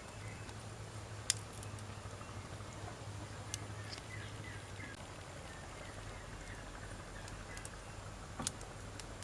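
Wood campfire crackling: a low steady hiss of burning logs broken by three sharp pops, about a second in, around three and a half seconds in, and near the end.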